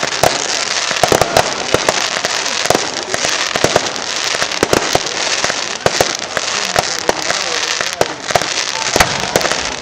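Aerial fireworks shells bursting: many sharp bangs and crackles in quick succession, several a second, over continuous noise.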